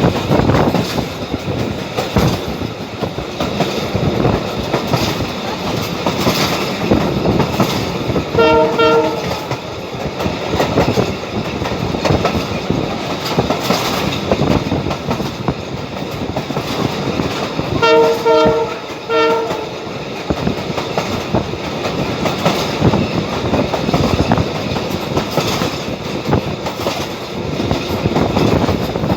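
Abu Qir commuter train running along the line, a steady rumble with the clatter of wheels over rail joints. Its horn sounds a group of short blasts about eight and a half seconds in, and again about eighteen seconds in.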